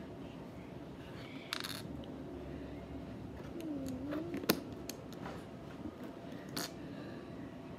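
Small plastic LEGO bricks clicking and rattling as they are handled: a short rattle about a second and a half in, then scattered sharp clicks, the loudest about four and a half seconds in.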